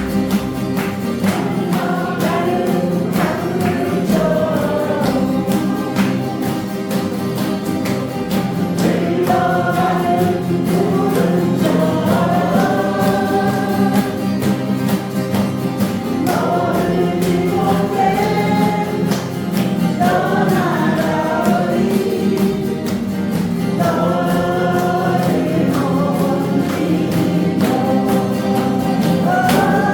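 A group of voices singing a song together to guitar accompaniment.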